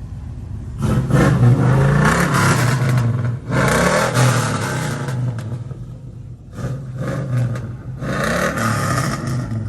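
A truck engine revved hard in four surges, with a lower rumble between them.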